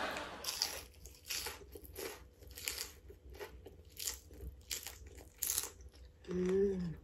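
Close-up mouth sounds of a person eating Samyang spicy instant noodles: the end of a noodle slurp at the start, then chewing with many short wet smacks and clicks, a few a second. Near the end comes a brief hummed "mm" that bends up and down.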